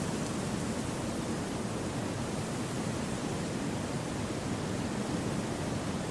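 Gentle wind through a forest: a steady, even rushing hiss with no gusts or separate sounds.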